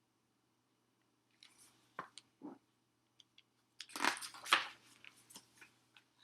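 Paper rustling and crinkling with a few light clicks as a picture book's page is turned and handled, loudest about two-thirds of the way through.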